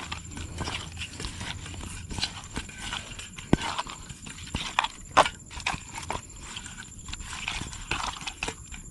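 Wood campfire burning and crackling, with irregular sharp pops, a few louder snaps in the middle.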